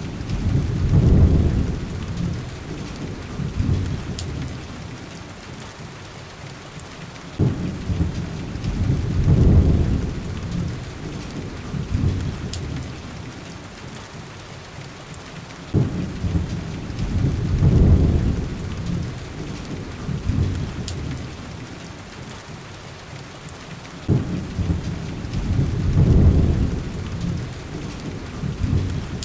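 Steady heavy rain with low rolls of thunder that come evenly about every eight seconds, four in all. Each starts with a sharp crack, swells for a couple of seconds and fades away.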